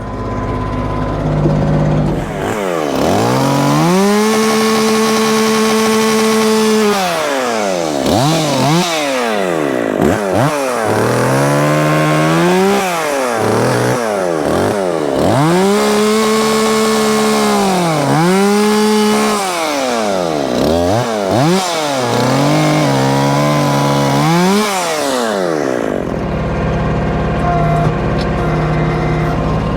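Two-stroke gas chainsaw, the Dolmar 510, revving to full throttle and dropping back again and again, about seven times, as it cuts through a downed log. Near the end it settles to a low, steady running sound.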